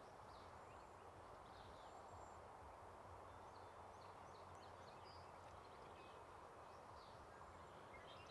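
Near silence: faint outdoor ambience with a few faint, high, thin bird calls scattered through it.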